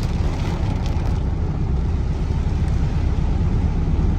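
Car driving along a wet street, heard from inside the cabin: a steady low engine and road rumble.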